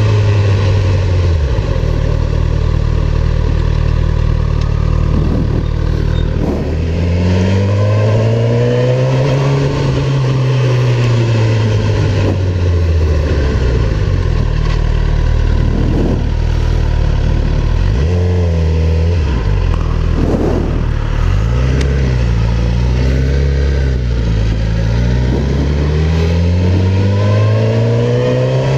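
Sport motorcycle engine revving up and easing off again and again, its pitch rising and falling in long sweeps, as when riding through the gears.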